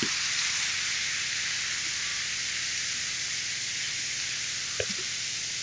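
Steady, even hiss of outdoor background noise, with a couple of faint short sounds near the end.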